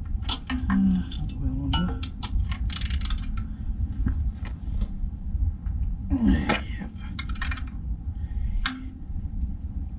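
Hand tools and metal parts clinking and clicking as they are handled, in scattered short knocks, over a steady low hum.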